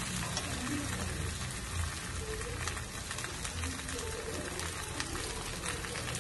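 Ilish fish head and boiled taro frying in spiced oil in a steel kadai: a steady sizzling hiss with small scattered crackles, at the masala-frying stage before water is added.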